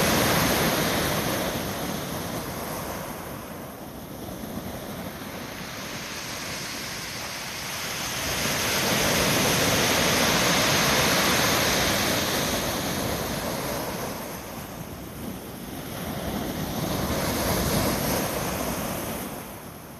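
Heavy surf from a typhoon swell: waves breaking and rushing up the beach as a rushing noise that swells and fades in slow surges, loudest at the start, again about eight to twelve seconds in, and once more near the end.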